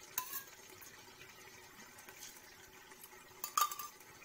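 Onion-and-spice masala paste bubbling and sputtering gently as it fries in a pan. A utensil clinks against the pan once at the very start and again, louder, near the end.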